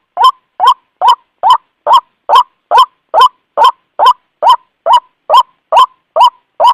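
White-breasted waterhen (ruak-ruak) giving its lure call: one short, rising 'kwak' note repeated evenly, a little more than two a second.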